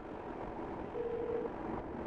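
A steady electronic beep, about half a second long, sounding once about a second in as part of a beep that repeats every second and a half, over a steady background of vehicle noise.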